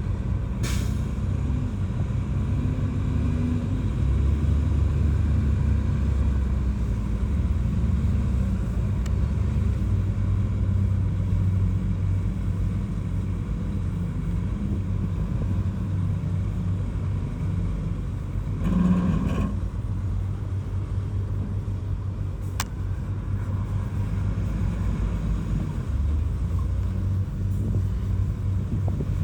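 Heavy diesel engine of a bulldozer running steadily under load, a continuous low rumble, with a brief louder burst about nineteen seconds in.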